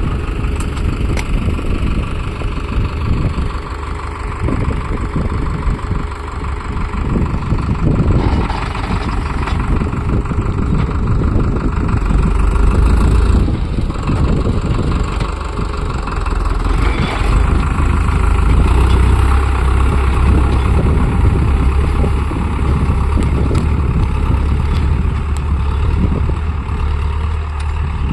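Farm tractor's diesel engine running steadily, with a strong low rumble throughout.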